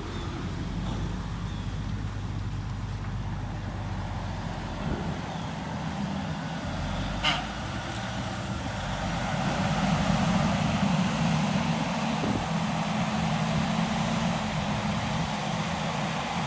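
Heavy diesel engine running steadily, growing louder about ten seconds in. A brief sharp sound about seven seconds in.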